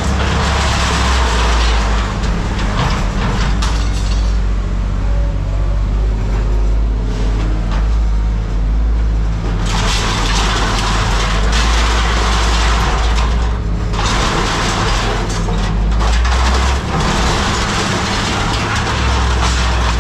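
A large engine running with a steady low rumble, overlaid by a rattling hiss that drops away for several seconds in the middle.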